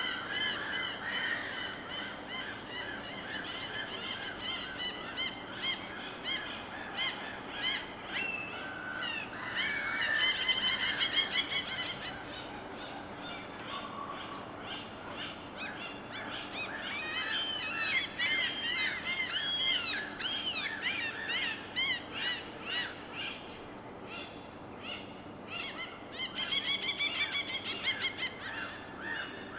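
Birds calling in repeated quick series of harsh, pitched calls, several overlapping at times, over a faint steady background hiss.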